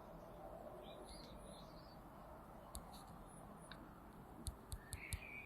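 Quiet room tone with a few faint high chirps, then a quick run of small sharp clicks starting about four and a half seconds in.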